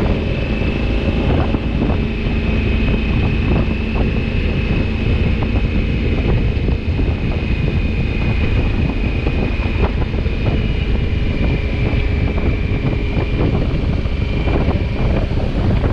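Wind rushing over the microphone with the steady drone of a 2020 Honda Africa Twin's parallel-twin engine, the motorcycle being ridden at an even speed.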